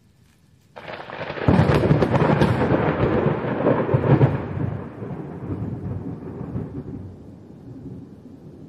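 Thunder: a sudden crack about a second in, a heavy crackling rumble, then a long fade over several seconds.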